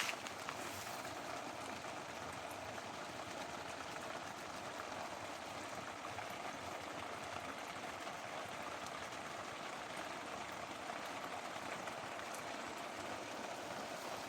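Garden sprinkler spraying water that patters onto plants and ground in a steady hiss.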